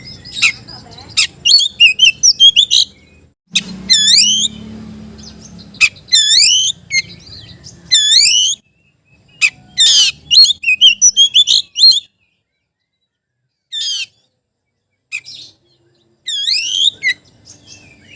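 Oriental magpie-robin (kacer) singing a loud challenge song at a rival: bursts of fast, sweeping whistled notes. A pause of a few seconds in the second half is broken by two short calls.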